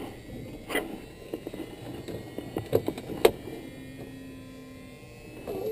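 A few scattered clicks and knocks as the Cessna 172's manual engine primer plunger is pulled out and pushed in, priming the engine with two shots of fuel before start.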